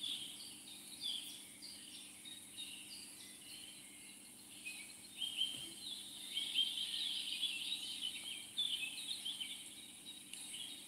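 Small birds chirping and twittering in short, high, irregular notes, busiest in the middle of the stretch, over a faint steady low hum.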